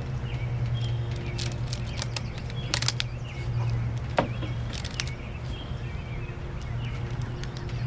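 Rubber bands snapping and clicking as they are stretched onto a watermelon, with small birds chirping in the background over a steady low hum.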